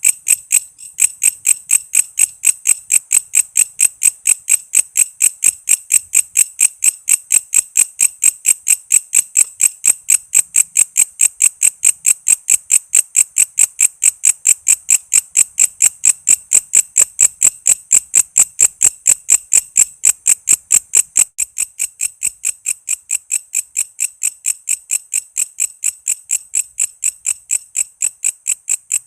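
A walang kece insect chirping in a steady, rapid train of short high-pitched pulses, about three to four a second.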